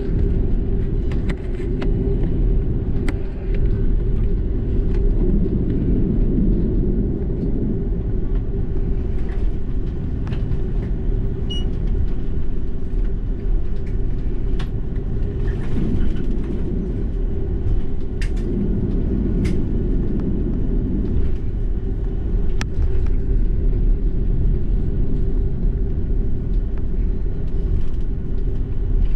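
Steady low rumble in the cabin of an Airbus A330-300 taxiing before takeoff, from its engines and its wheels rolling on the taxiway, with scattered light clicks and rattles from the cabin.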